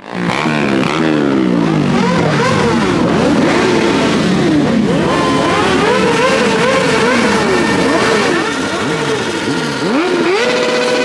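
Engines being revved over and over at a car meet, many overlapping rises and falls in pitch.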